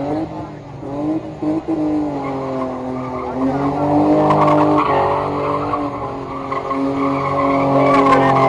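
BMW E30 engine held at high revs while its tyres squeal and skid, as in a burnout or drift. The revs waver up and down and the sound grows louder about two seconds in.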